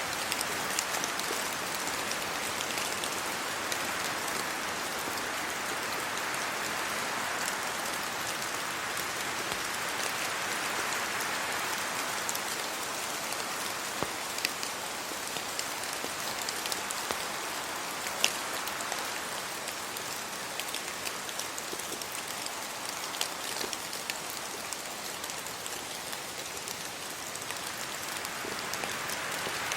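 Steady rain falling on tree leaves, an even hiss with scattered sharper single drops ticking through it. It eases a little past the middle and builds again near the end.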